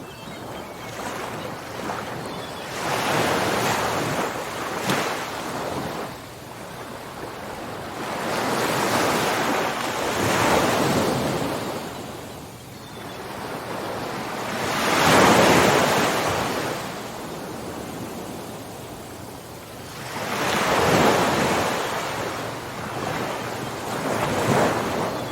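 Ocean waves breaking and washing up the shore in repeated surges every four to six seconds, each swelling and fading away, the loudest about halfway through.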